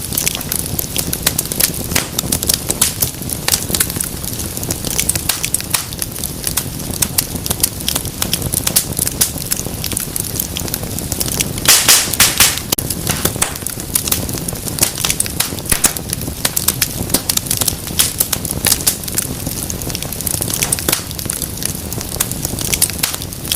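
Wood fire in a fireplace crackling and popping steadily over the low rush of the flames, with a burst of louder, denser pops about halfway through.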